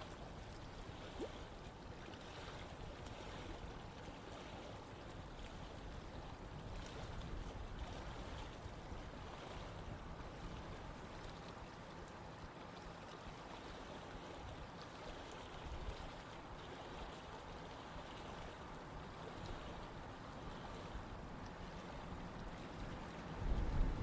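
Running stream water flowing steadily, an even rushing wash. Near the end a low wind rumble starts buffeting the microphone.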